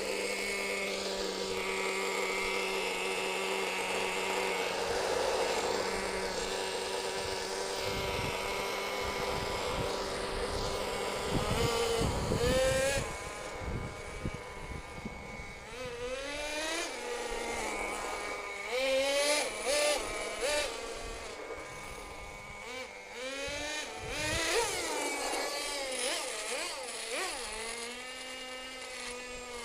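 Force .18 nitro engine of an RC monster truck running: a steady high buzz for about the first ten seconds, then repeated revving with the pitch rising and falling as the throttle is worked.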